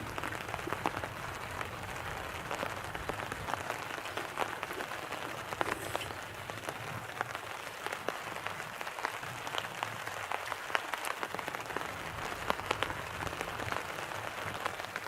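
Wood fire burning in a campfire pit, crackling with frequent small irregular pops over a steady hiss.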